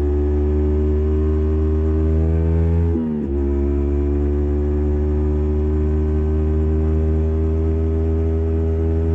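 Yamaha MT15's single-cylinder engine running at steady cruising revs through an SC Project full-system exhaust with the silencer fitted. About three seconds in, the revs drop sharply for a moment, then pick back up and hold steady again.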